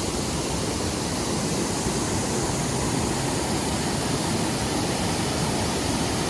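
Steady, even rush of a creek waterfall's falling water.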